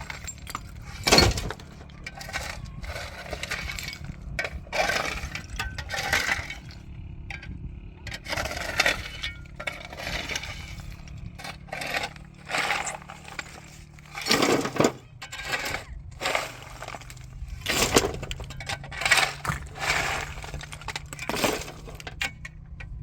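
A run of irregular clinks, cracks and clattering knocks of hard objects breaking or being handled, over a steady low hum.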